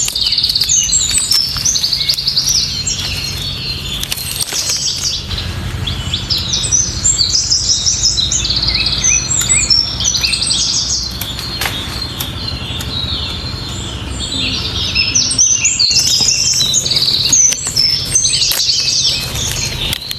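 A chorus of many birds chirping and twittering without a break, with short overlapping calls, over a steady low hum.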